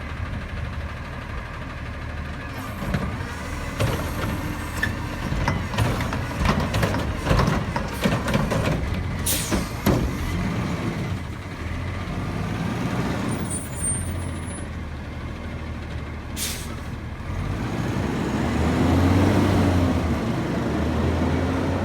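Garbage truck's diesel engine running, with a series of clanks and knocks from the truck body in the first half and two sharp air-brake hisses. Near the end the engine revs up and down.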